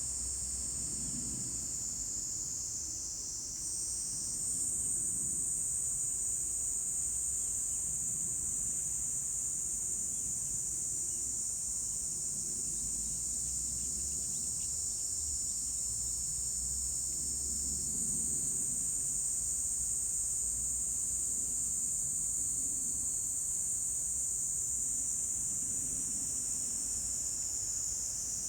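A steady, high-pitched chorus of many chirping insects, growing a little fuller about four seconds in.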